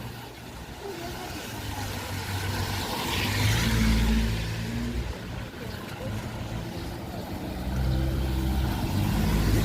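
Two motor vehicles passing on a wet road, one after the other: engine hum with tyre hiss that swells to a peak about four seconds in and again near the end.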